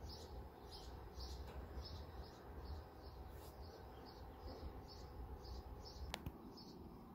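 A bird faintly chirping one short high note over and over, about twice a second, over a low steady hum. A single light tap about six seconds in.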